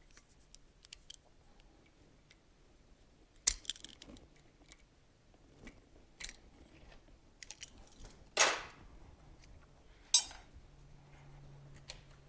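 Metal hand tools and motorcycle parts being handled during a teardown: scattered light clicks and clinks, a loud knock about three and a half seconds in, a longer scraping sound about eight and a half seconds in, and a sharp clank with a brief ring about ten seconds in.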